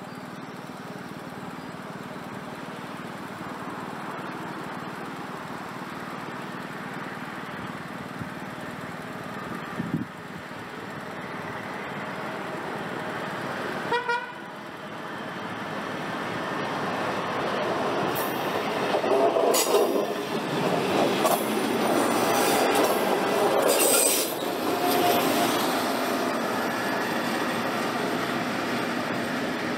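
A train approaching and passing on the line: a short horn toot about halfway through, then wheel and rail clatter that peaks over several seconds near the end before easing off.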